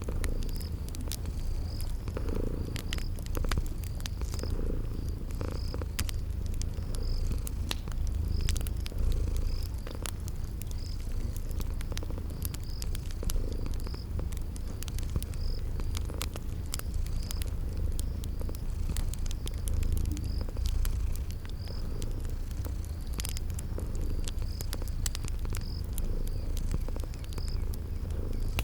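Cat purring steadily in a low, continuous rumble, over the scattered pops and crackles of a wood fire. A cricket chirps at a regular pace, about once a second.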